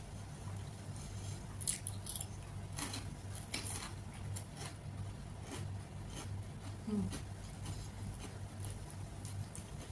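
Close-up eating sounds: irregular crisp crunching and small mouth clicks from chewing a fried 'colorful fingers' snack with rice and rajma. A steady low hum runs underneath, and a short murmur of voice comes about seven seconds in.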